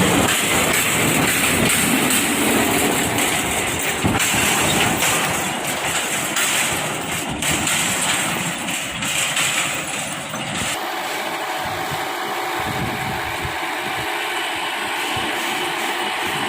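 Tractor engine running, with a loud rattling clatter for most of the stretch; about eleven seconds in the sound changes abruptly to a steadier, smoother engine hum.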